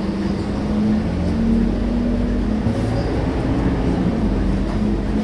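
Scania K230UB bus with its five-cylinder diesel engine running while under way: a steady drone whose pitch rises slightly and then settles.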